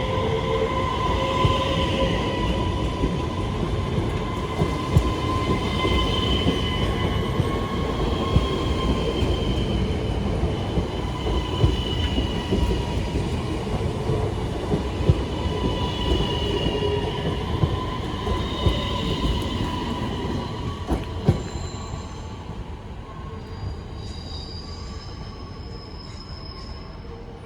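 Coupled DSB Litra ET (Øresundstog) electric multiple units rolling through the station with their wheels squealing in wavering high tones, over a steady rumble and scattered sharp clicks from the wheels on rail joints and points. The sound fades over the last few seconds.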